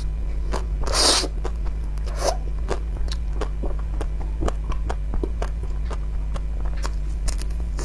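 Close-miked eating sounds as the hard teal shell of an ice cream bar is bitten and chewed: a louder crunch about a second in, then irregular crackling clicks of the coating breaking in the mouth, over a steady low hum.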